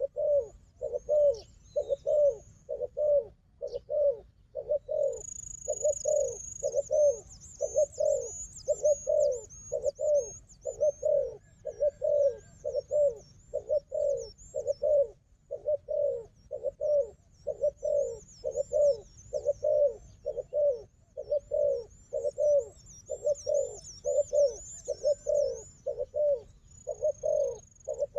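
Dove cooing in a long unbroken series of short low coos, about one and a half a second. Faint high twittering from another small bird runs over it.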